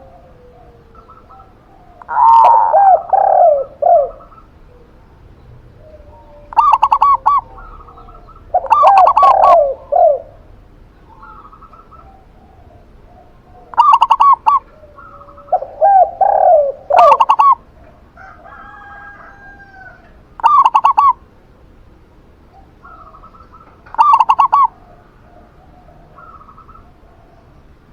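Zebra dove (perkutut) and spotted dove (tekukur) cooing, with a loud phrase every few seconds and fainter calls between them.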